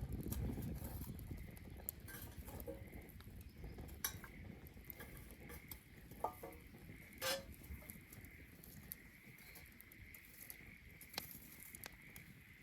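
Wood bonfire crackling, with scattered sharp pops; the loudest pop comes about seven seconds in. A low rustle of flame fades over the first couple of seconds.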